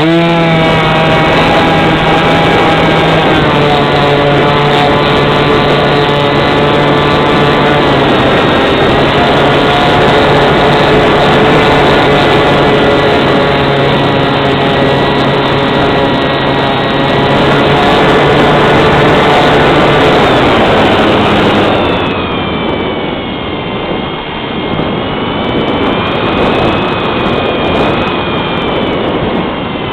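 A motor spinning up quickly, then running steadily at high speed. About 22 seconds in, the pitch shifts and the sound gets a little quieter and less steady.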